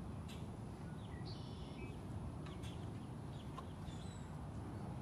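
Wild birds chirping in short, scattered calls over a steady low background hum.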